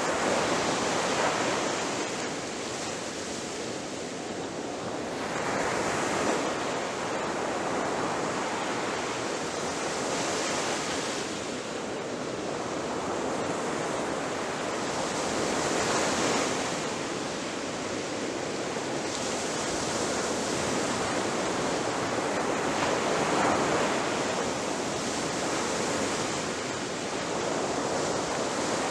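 Ocean waves breaking on a shore: a continuous wash of surf that swells with each breaker and eases back, about every five or six seconds.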